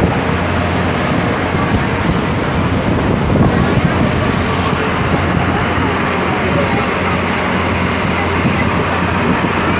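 Heavy rain pouring steadily, with wind on the microphone, over the low steady drone of a river boat's engine.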